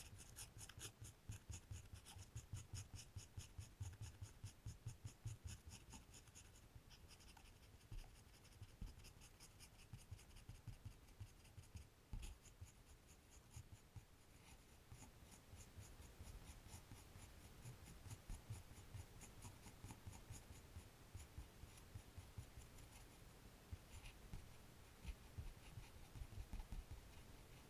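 Drawing on paper, with a drawing tool scratching in quick, repeated strokes. The strokes are fast and even for the first several seconds, then turn softer and more scattered.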